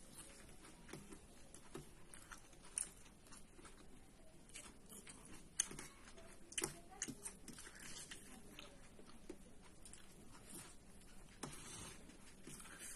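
A person chewing and biting food, faint irregular mouth clicks and small crunches, with a few sharper clicks around the middle.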